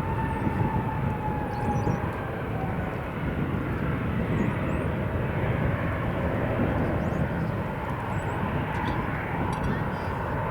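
Jet airliner engines running: a steady rumble and rush with a thin whine that fades out about two seconds in.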